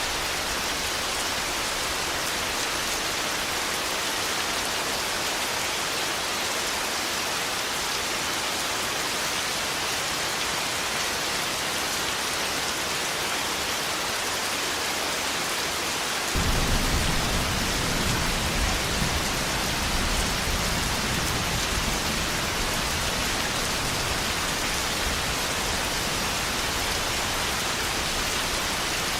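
Steady heavy rain hissing. A bit past halfway a low thunder rumble comes in abruptly and keeps rolling under the rain.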